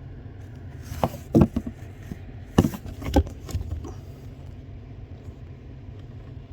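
A handful of sharp plastic clicks and taps as fuel pump relays are handled, over a steady low hum.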